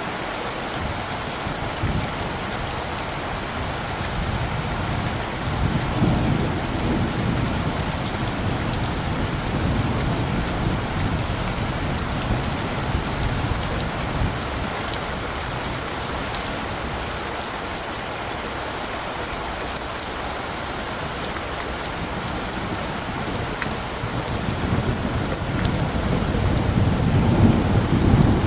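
Steady rain falling, with light thunder rumbling low underneath: one roll swells a few seconds in, and another builds near the end.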